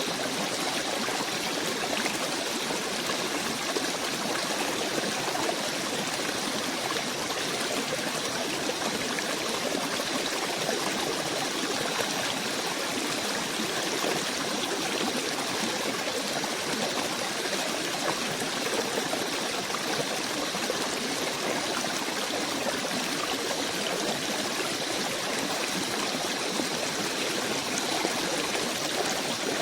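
Steady, unbroken rushing noise of a forest nature ambience, even in level throughout, with no distinct bird calls standing out.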